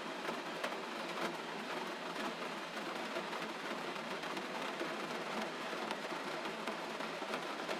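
Gentle rain falling steadily: an even hiss with faint scattered drop ticks.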